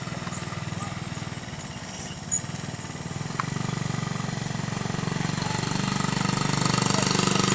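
Small motorcycle engine running with a rapid, even putter that grows louder over the second half.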